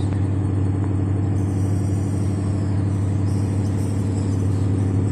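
An engine running steadily at a constant speed with a deep, even hum.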